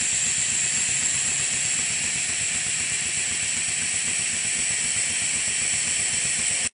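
Maxwell Hemmens colliery model steam engine running on compressed air: a steady hiss of exhausting air over a fast, even mechanical beat. The sound cuts off abruptly near the end.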